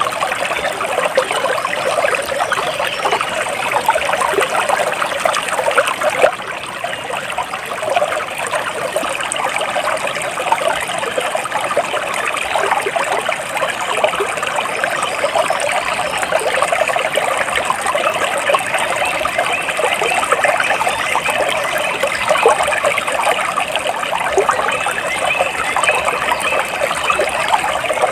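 Stream water trickling steadily: a continuous rush full of small splashes.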